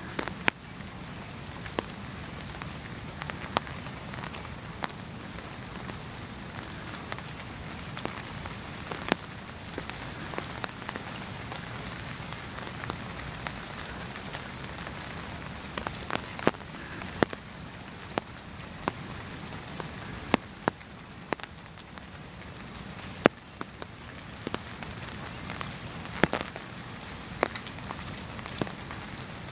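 Steady rain, with individual drops tapping sharply and irregularly close by.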